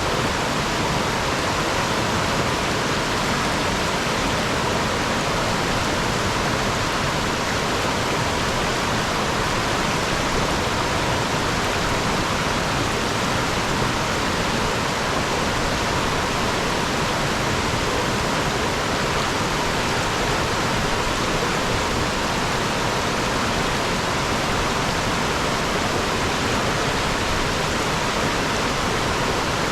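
Fast-flowing river water rushing over and around rocks: a steady, even rush with no breaks.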